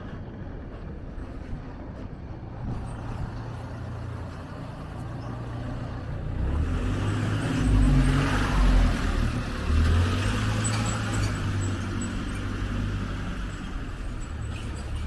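Street traffic: a motor vehicle's engine and tyres pass close by, swelling to their loudest about eight seconds in, then easing off into a steady traffic hum.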